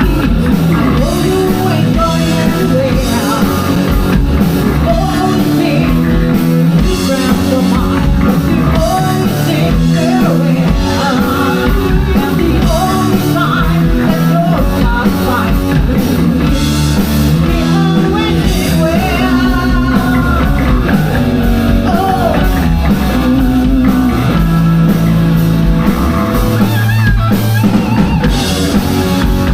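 Live rock band playing loud: drum kit, electric guitar and bass, with a lead melody or singing on top.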